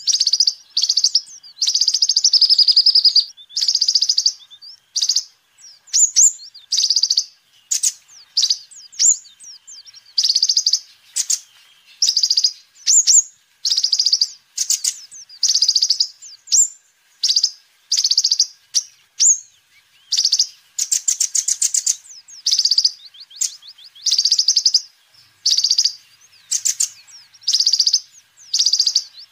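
Kolibri ninja (a sunbird) singing busily: fast runs of high, thin chirps and short buzzy trills, one phrase after another with only brief pauses between them.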